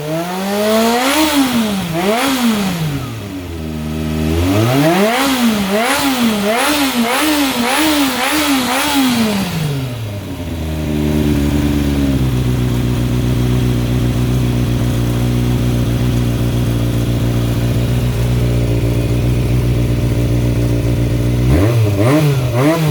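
Honda CBX400F inline-four running through an RPM 67 aftermarket exhaust with its optional baffle fitted, revved in repeated quick blips, a run of about five close together, then settling to a steady idle for about ten seconds before it is blipped again near the end.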